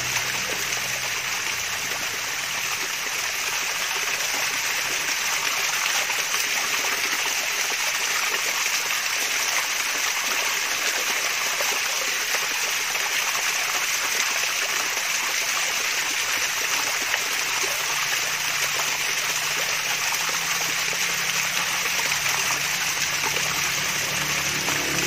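Water from a small waterfall trickling and splashing in a steady, unbroken flow.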